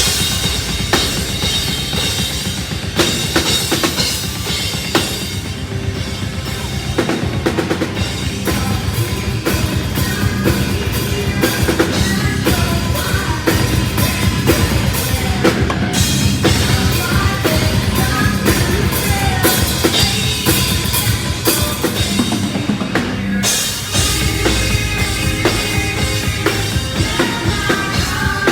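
Live heavy metal band playing loud, with a drum kit hammering fast bass-drum and snare hits under the full band.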